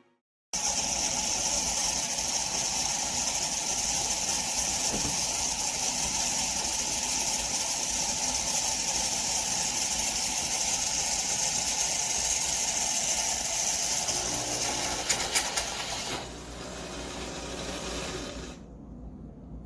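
Philips 4300 espresso machine running with a steady hiss, a few clicks near the end of the loud part; it then eases to a quieter run and stops near the end.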